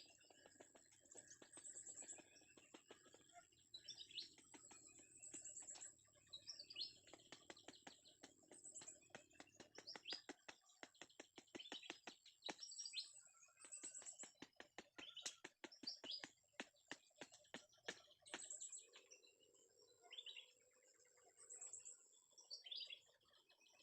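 Wild birds chirping over and over in high, thin calls. A fast, uneven run of sharp clicks or crackles fills the middle stretch.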